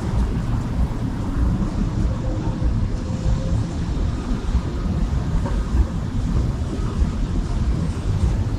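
City street ambience: a continuous low rumble of traffic.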